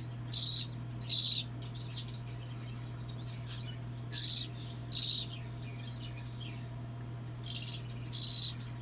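Hungry hand-fed baby bird giving shrill begging calls for food: six short squawks, each falling in pitch, coming in three pairs about a second in, about four seconds in and near the end. A steady low hum runs underneath.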